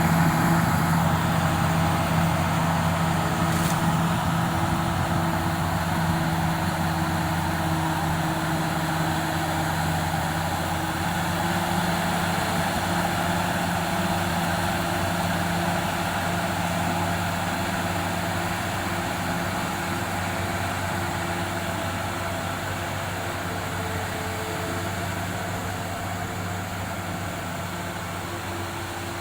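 Komatsu D85SS-2 crawler bulldozer's diesel engine running steadily under work, growing gradually quieter.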